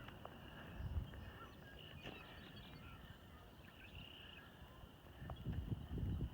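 Faint marsh ambience: a steady high-pitched chorus of calling animals, with footsteps thudding on the trail near the end.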